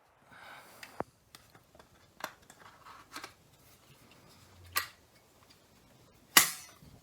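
Sharp clicks and taps from the small plastic parts of a car's rotary light switch being handled during reassembly. There are about five separate clicks a second or so apart, the loudest one near the end.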